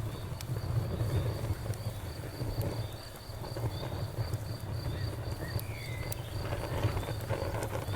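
A campfire burns with a low rumble, and scattered sharp crackles and pops come from the wood. Over it a cricket chirps in a steady, even pulse.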